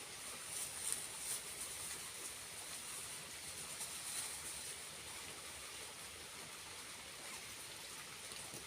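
Small waterfall running: a steady high hiss of falling, splashing water, with a few sharper splashes about a second in and again around four seconds.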